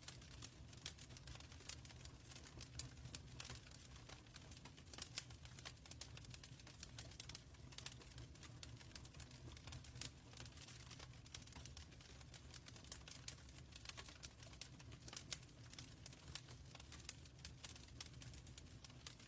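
Wood fire in a fireplace crackling: faint, irregular pops and snaps over a steady low rumble.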